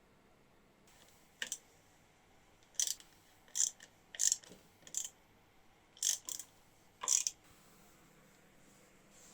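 Hand-tool work in a workshop: about eight short, sharp, hissy strokes at uneven intervals.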